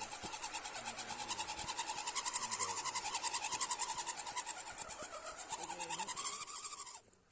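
Electric motor and gear drivetrain of a 1:10 scale RC crawler running, a pulsing whine whose pitch rises and falls with the throttle; it cuts off suddenly near the end.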